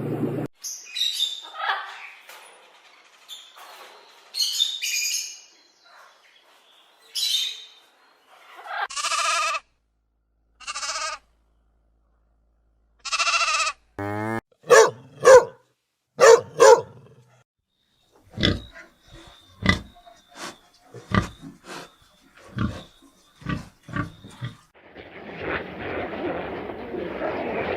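A string of separate farm-animal calls: short high cries at first, then louder pitched calls near the middle that sound like goat bleats. These are followed by a run of sharp clicks or knocks and a noisy stretch near the end.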